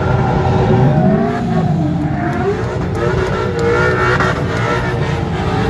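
Car engines revving, several pitches rising and falling over one another.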